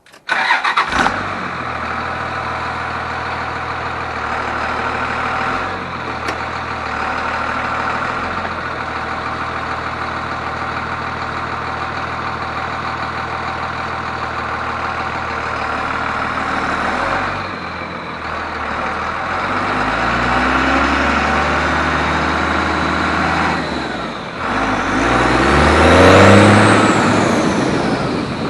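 A 1999 24-valve Cummins diesel starts at the beginning and settles into a steady idle. Near the end it is revved twice, and on the second rev the turbo whistles, rising and then falling in pitch.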